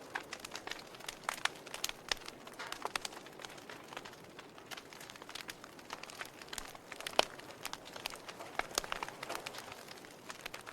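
Wood fire burning in a fireplace, crackling with irregular sharp pops over a soft steady hiss. The loudest pop comes about seven seconds in.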